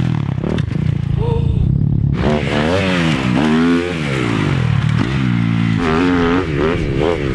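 Dirt bike engine revving, its pitch climbing and dropping over and over from about two seconds in, as when riding the track through throttle and gear changes.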